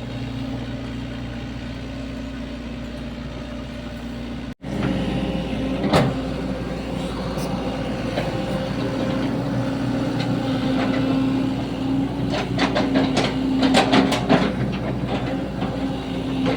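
Sany SY75 mini excavator's diesel engine running steadily under work, with a brief break about four and a half seconds in. After it the engine is louder, with sharp knocks and clatter from the digging, the densest run of them near the end.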